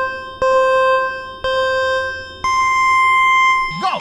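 Electronic race-start countdown beeps: two more low beeps about a second apart, then a higher, longer 'go' tone about two and a half seconds in. The tone cuts off just before the end.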